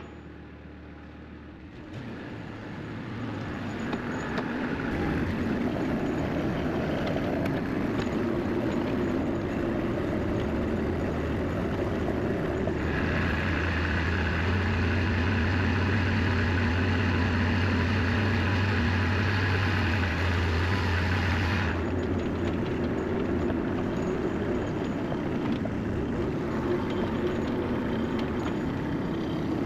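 A vehicle engine running steadily while the sawmill is moved out into position. It builds over the first few seconds, runs loudest and hardest for about ten seconds in the middle, then eases off a little.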